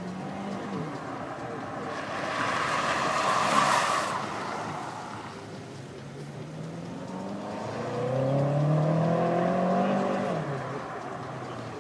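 BMW car being driven hard on a test track: tires squeal about two seconds in, then the engine revs climb for several seconds and fall away near the end.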